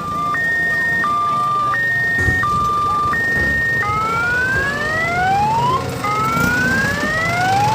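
Electronic siren alternating between two tones, high-low, about three times. About four seconds in it changes to rising whoops, two sweeps of about two seconds each.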